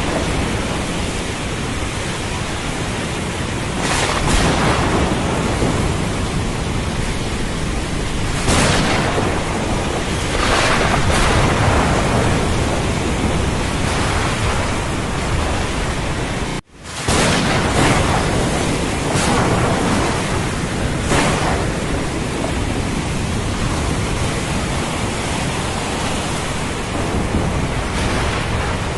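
Thunderstorm ambience of heavy rain and ocean surf: a steady wash of noise that swells every few seconds. The sound cuts out for an instant a little past halfway, then comes straight back.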